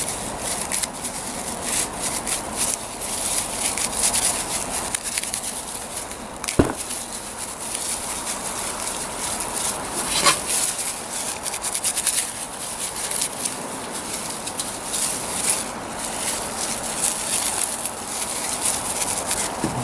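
Dry grass being rubbed and worked between the hands to break it down into fine tinder, a continuous crackling rustle with two sharper clicks, one about six and a half seconds in and one about ten seconds in.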